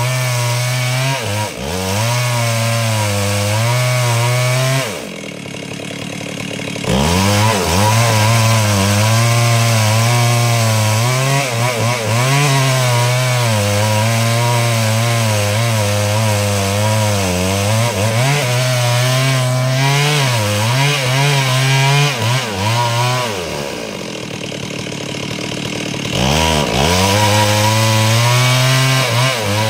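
Stihl two-stroke chainsaw ripping wood lengthwise to cut planks, running hard under load. Twice the revs sag and it drops back before it picks up again and goes back into the cut.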